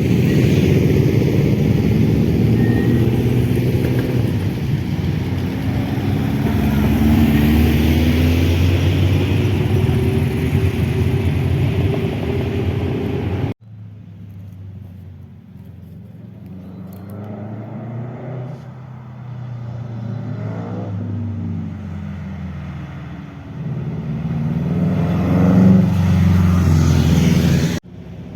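Motorcycle engines running hard, the pitch climbing and dropping as the rider goes through the revs. About halfway in the sound cuts suddenly to a quieter recording in which an engine revs up and down several times and grows louder near the end.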